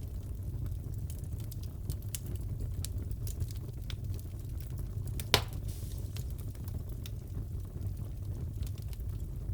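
Wood fire crackling in a fireplace: a steady low rumble of flames with frequent small snaps, and one louder pop about five seconds in.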